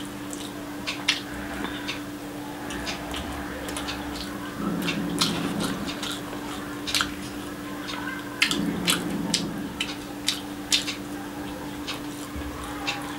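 Close-miked eating: chewing of boiled egg and fried rice, with many sharp wet mouth clicks and smacks, and fingers squishing rice on the plate around the middle. A steady low hum runs underneath.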